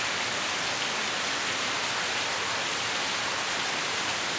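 Heavy rain falling, a steady even hiss that neither builds nor fades.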